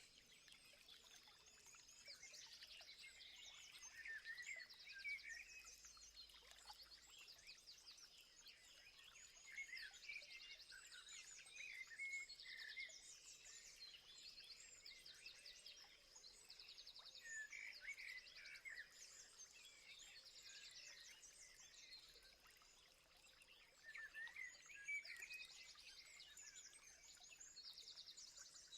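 Faint chorus of several wild birds chirping and singing, with short fast trills repeating every few seconds over a steady high-pitched tone.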